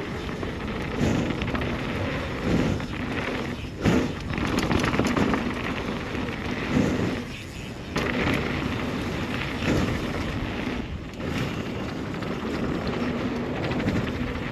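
Wind rushing over the microphone and tyres rolling on a dirt trail as a downhill mountain bike descends, with a few sharp knocks from the bike hitting bumps.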